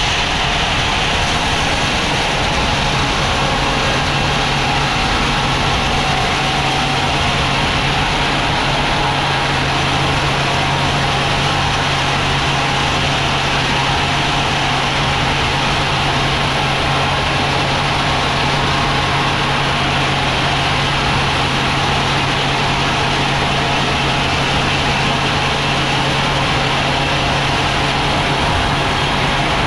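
Sawmill machinery running steadily: an even, unchanging noise with a constant low hum.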